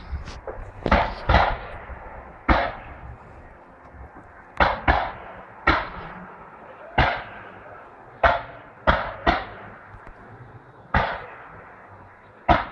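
Fireworks display: a string of about a dozen sharp firework bangs at irregular intervals, each dying away in an echoing tail.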